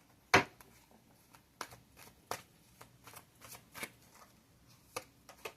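Tarot cards being handled and laid out: a sharp card snap about a third of a second in, then scattered lighter flicks and taps of cards.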